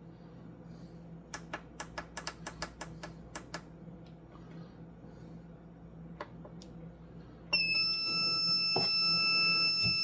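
A quick run of about a dozen sharp clicks, then a digital slow cooker gives one long steady electronic beep of nearly three seconds as it is switched on to cook. A low appliance hum runs underneath.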